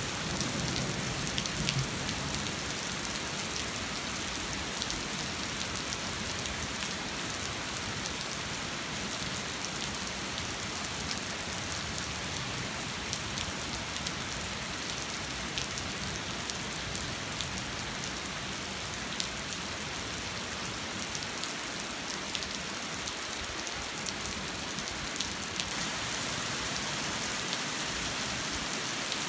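Steady rain falling and pattering, with single drops ticking sharply now and then.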